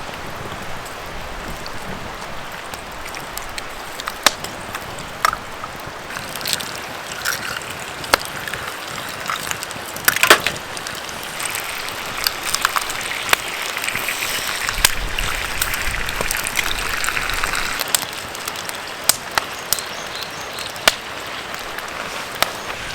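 Bacon and eggs sizzling in a pure-iron frying pan over a campfire: a steady hiss with frequent sharp pops and crackles, growing louder for several seconds midway.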